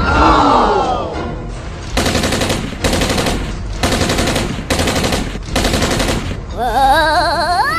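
Five short bursts of rapid machine-gun fire, about a second apart. They come between a falling whistling sweep at the start and a rising, warbling tone near the end.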